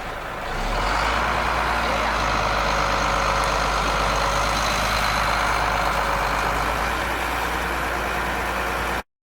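A heavy truck running steadily under way, with its engine hum and road noise. The sound rises a little under a second in and cuts off suddenly near the end.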